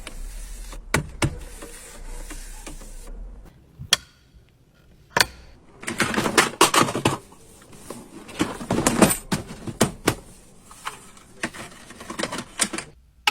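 A run of irregular sharp clicks and knocks, crowded together in the middle of the stretch.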